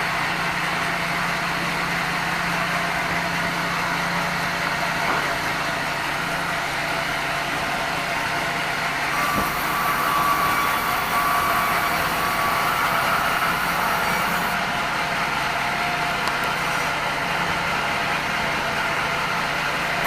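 Sawmill band saw and its drive running steadily while milling red meranti timber, with a steady machine hum and hiss. It grows a little louder about halfway through, when a higher whine joins in.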